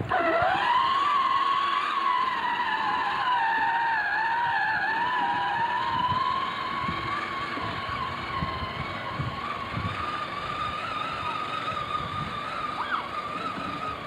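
A small vehicle's motor running with a steady high whine. It starts abruptly, its pitch rises quickly, then wavers slightly as it runs.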